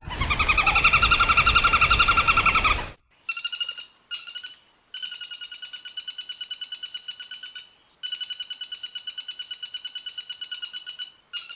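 Woodpecker calling in rapid rattling trills, repeated in several bursts with short breaks between them; the first trill is louder, with a hiss of background noise under it.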